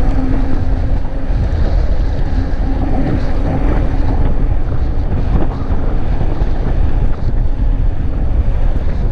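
Loud wind buffeting the microphone from riding an electric fat bike at speed, with a steady low rumble underneath and a faint steady hum in the first few seconds.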